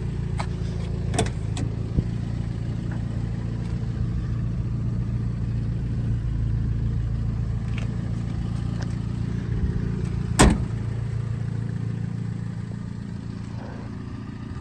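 Toyota 22R four-cylinder engine idling steadily, with a sharp click about ten seconds in. The engine grows quieter near the end.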